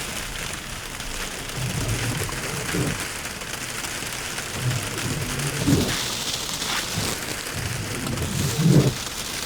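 Sleet and snow hitting a Tesla's windshield and roof, heard from inside the cabin as a steady hiss. The windshield wipers sweep across the glass, with a low swell every few seconds.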